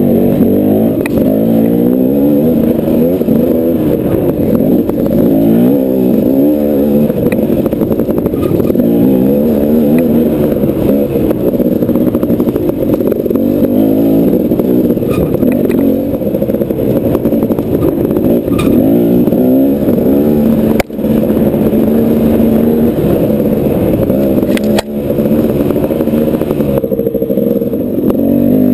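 KTM off-road dirt bike engine running under riding load, its pitch rising and falling constantly as the throttle is worked, with scattered knocks and clatter; the sound drops out sharply twice about two-thirds of the way through.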